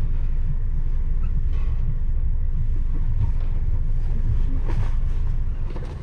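Steady low rumble of a Chiltern Mainline Mk3 coach's running noise, heard from inside the coach as the train rolls slowly into the platform.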